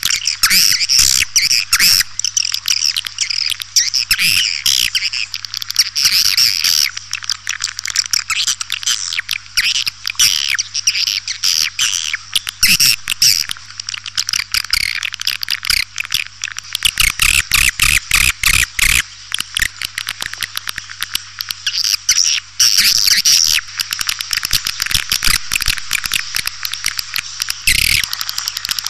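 Recorded edible-nest swiftlet calls: a dense, continuous chatter of rapid high chirps and twitters. This is a swiftlet lure call of the kind played to attract the birds to a nesting house, with a steady low hum underneath.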